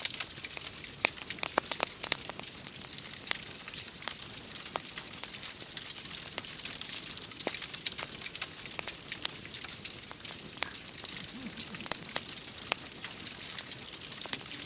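Wood fire crackling in a fireplace, with many irregular sharp pops over a steady high hiss of rain.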